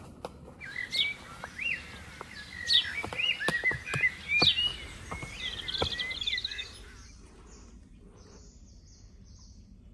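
Forest birds chirping and calling, many short whistled notes that rise and fall, busiest in the first half and dying away about two-thirds of the way through, followed by a few faint, high, short repeated notes.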